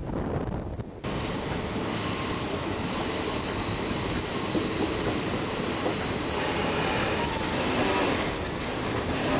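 Railroad car wheels squealing on curved track as the circus train rolls along over a steady rumble. The squeal is high-pitched and strongest from about two seconds in until past the middle.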